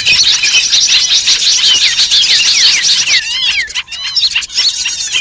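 Many small birds chirping rapidly together, packed quick falling and arching whistled notes, densest in the first three seconds and thinning after a brief dip near the four-second mark. A lure-call recording for drawing in small birds.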